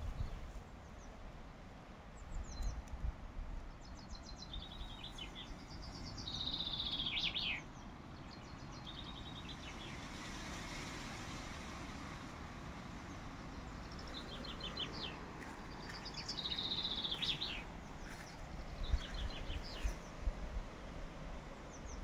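A songbird singing in short phrases: runs of quick high ticks and short trills, each group ending in a falling, slurred note. The song comes twice, about ten seconds apart, over a faint steady hiss, with low thumps near the start and near the end.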